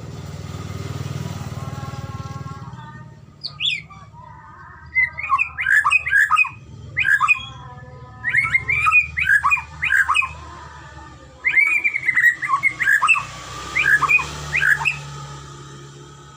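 White-rumped shama (murai batu) singing: phrases of quick, sweeping whistled notes rising and falling in pitch, with short breaks between phrases. Before the song starts, a low rumble swells and fades over the first three seconds.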